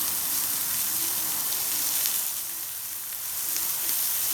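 Steady sizzling hiss from a wood-fired barbecue grill, dipping slightly in the middle.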